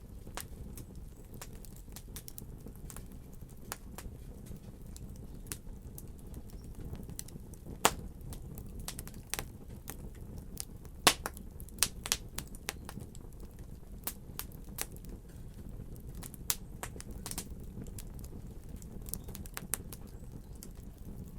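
Wood fire burning in a fireplace: a steady low rush of flames with irregular crackles and pops, the loudest snaps about 8 seconds in and around 11 to 12 seconds in.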